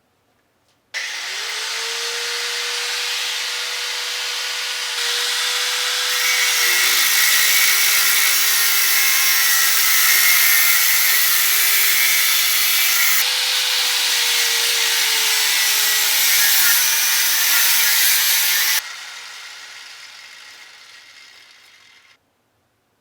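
Angle grinder spinning up and cutting into the metal of a Yoshimura exhaust muffler; the cutting grows louder about six seconds in. It is switched off near the end and winds down over a few seconds.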